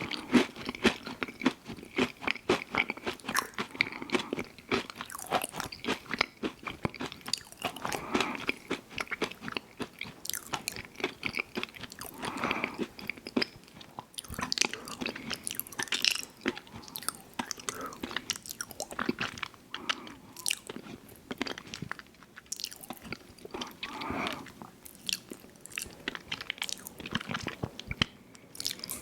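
A person chewing and crunching food close to the microphone, with a steady run of crisp crunches and wet mouth sounds.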